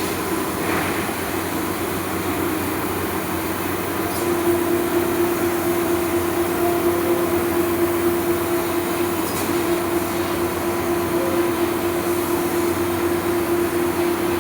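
CNC laser cutting machine running, a steady mechanical rumble and hiss. A droning tone sets in about four seconds in and holds on.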